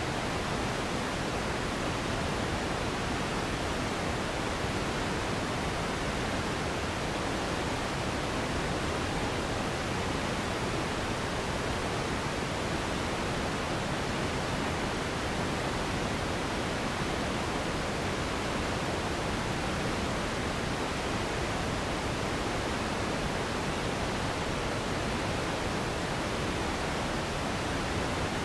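Steady electronic relaxation noise: an even, unchanging hiss spread across all pitches, slightly softer at the very top.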